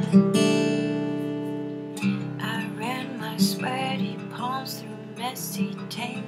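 Acoustic guitar: a chord is strummed and rings out, then a woman's voice begins singing over the strummed guitar about two seconds in.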